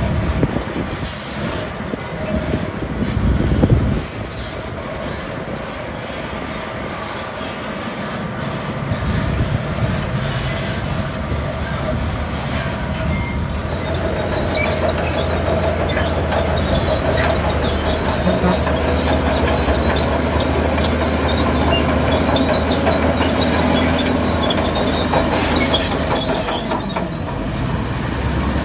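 Crawler bulldozer at work: its diesel engine running under load while the steel tracks squeal and clank. There is a louder rumbling clatter in the first few seconds.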